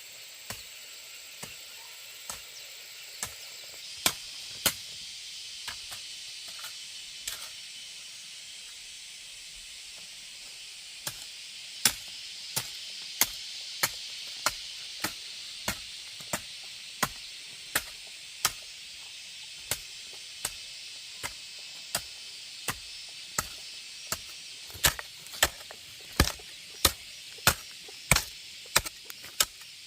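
A blade chopping with repeated sharp strokes, about one a second, pausing briefly in the middle and coming faster near the end, over a steady high hiss.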